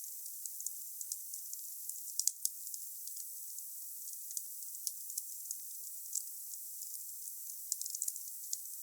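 Wood fire burning: a steady hiss with scattered crackles and sharp pops, including a quick run of pops a little over two seconds in and another near the end.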